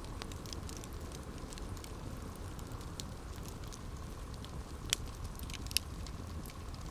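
Campfire burning with a steady low rumble and scattered crackles of wood, two sharper pops near the end.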